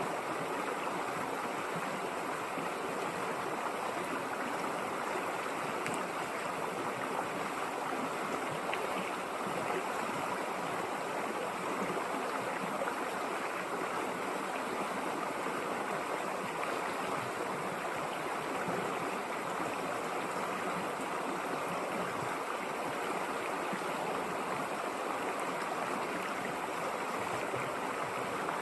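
River water running over rocks: a steady rush of flowing water.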